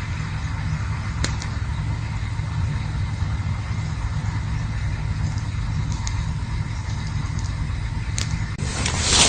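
Campfire burning, with a few sharp crackles over a steady low rumble, and a louder rushing noise near the end.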